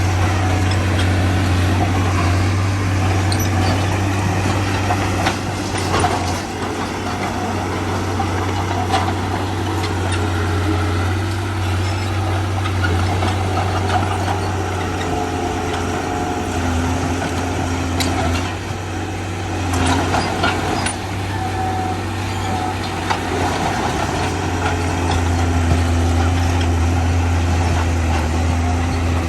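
Heavy diesel earthmoving machinery running steadily, a deep continuous engine hum, with a few sharp metallic clanks.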